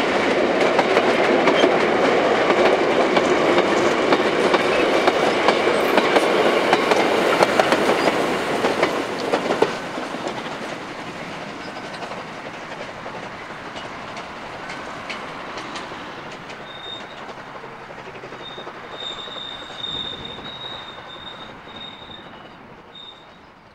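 Narrow-gauge steam tram train rolling past, its wheels clacking over the rail joints, loud for the first eight or nine seconds and then fading as it moves away. In the later part a thin, high wheel squeal sounds on and off.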